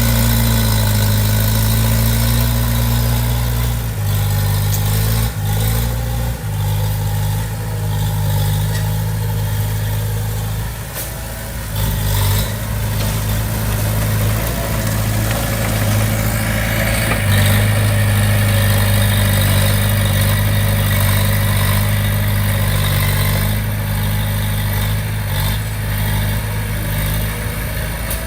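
Komatsu D20P bulldozer's diesel engine running steadily as the machine works, its note shifting a few times, with a few short knocks.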